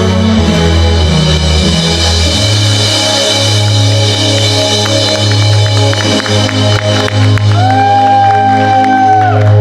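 Band music with drums and a steady bass line; near the end one high note is held for about two seconds.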